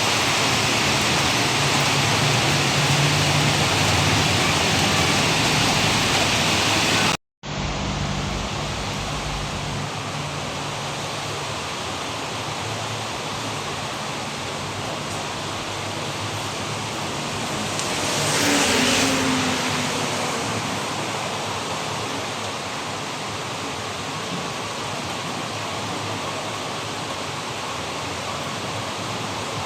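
Heavy rain falling steadily, an even hiss. About seven seconds in it cuts out for an instant and returns a little quieter, and a brief swell of louder hiss comes around eighteen seconds in.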